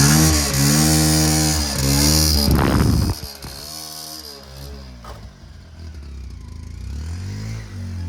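Diesel engine of a JCB 3DX backhoe loader running and revving up and down as it works, with a short noisy burst about three seconds in, after which it drops much quieter.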